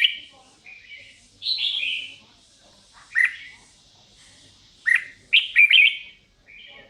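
A songbird chirping in short bright notes and brief phrases, one of them sliding downward, in bursts every second or two.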